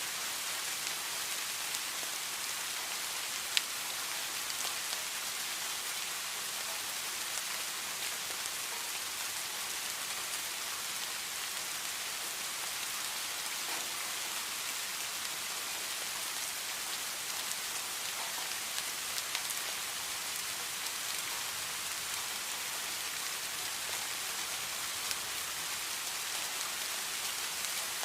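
Steady rain falling, an even hiss with scattered sharp drop ticks, one louder tick about three and a half seconds in.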